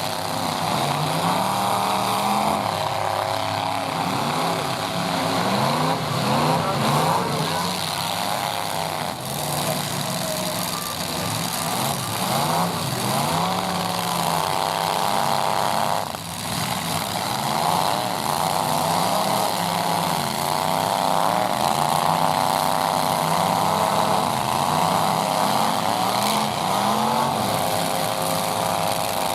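Several full-size pickup truck engines revving hard and dropping back, over and over, their pitches rising and falling across one another as the trucks reverse and ram in a demolition derby.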